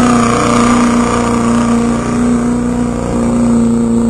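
A pulling truck's engine running loud at high, steady revs, its pitch holding nearly level with slight dips.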